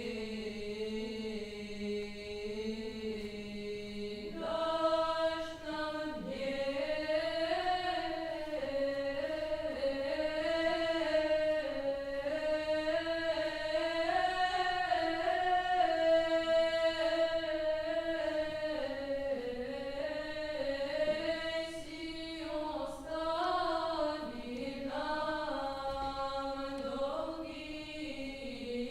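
Voices singing a slow Old Russian chant in two parts moving together. A single held chord for the first four seconds, then the melody moves in long sustained notes.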